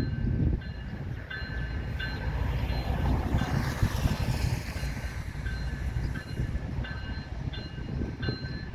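Freight train of tank cars rolling past, a steady heavy rumble that swells about four seconds in. A short ringing tone repeats about one and a half times a second throughout.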